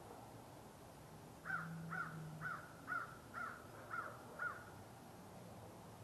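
A corvid calling outdoors: a series of seven short cawing calls, about two a second, each rising then falling in pitch.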